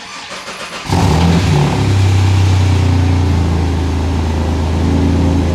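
Ford Falcon EF XR6's inline-six engine starting: the starter cranks for about a second, then the engine catches with a brief rise in revs and settles into a steady idle.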